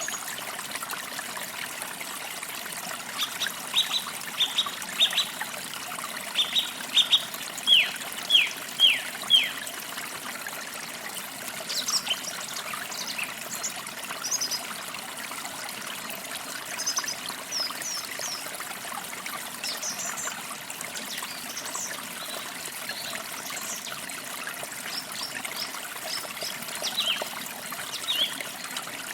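Forest stream trickling steadily, with birds singing over it. For a few seconds near the start, one bird sings a run of loud downward-sliding whistled notes that grow stronger. After that come scattered, higher short chirps.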